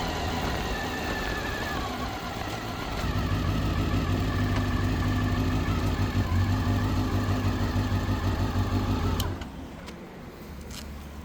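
Honda CBR400RR's inline-four engine running steadily at low revs, then cut off suddenly about nine seconds in. A couple of faint clicks follow.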